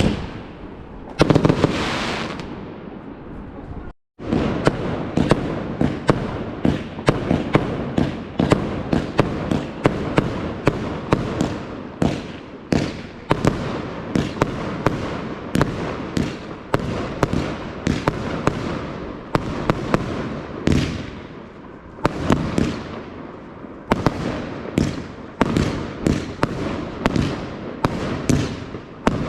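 Fireworks going off in quick succession: a string of sharp bangs, a couple or more each second, with a brief cut-out about four seconds in.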